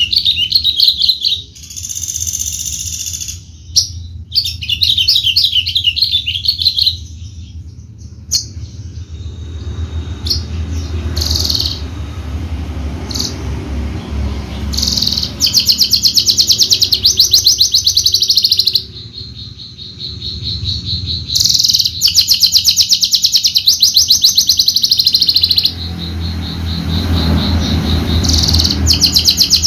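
Javan bush lark (branjangan) singing long, very rapid trills of high notes in phrases of a few seconds, broken by short pauses, over a steady low rumble.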